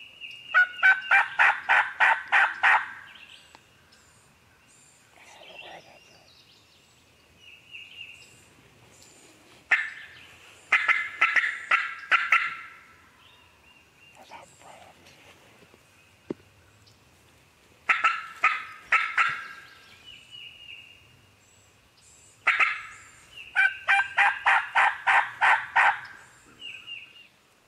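Turkey calling in four loud runs, each of about eight to ten evenly spaced, sharp notes, with fainter short calls in between.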